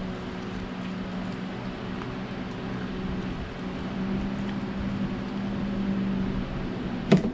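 A steady low mechanical hum in the room, a little louder for a few seconds in the second half, with one sharp click near the end.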